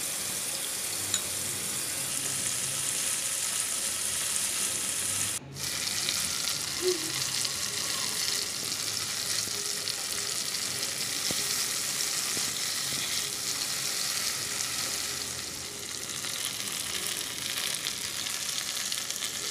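Chicken shashlik skewers sizzling steadily in butter in a frying pan, with a brief break in the sound about five and a half seconds in.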